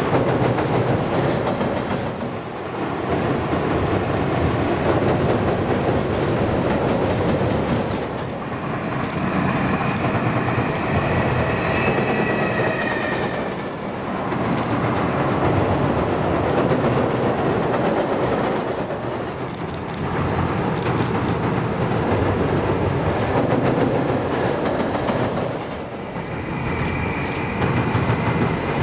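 EF210 electric freight locomotive running, its traction motors and cooling blowers sounding over the noise of wheels on rail. The level swells and dips about every six seconds, and a thin high whine comes in twice, in the middle and near the end.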